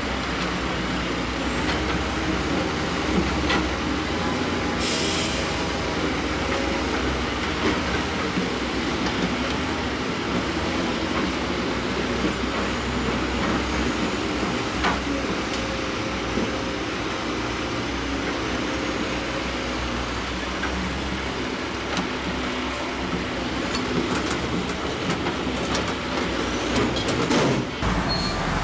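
Zoomlion bulldozer's diesel engine running steadily while it works gravel, with scattered clanks from its steel tracks and a short hiss about five seconds in.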